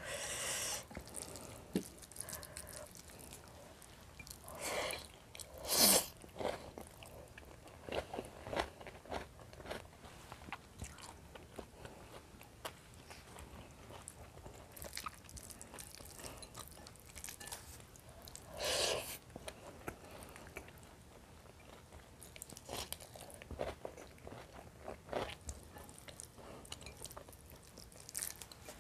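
Close-miked chewing and mouth sounds of a person eating fried fish and rice by hand, with a handful of louder crunchy bites, the biggest about six seconds in and again near nineteen seconds.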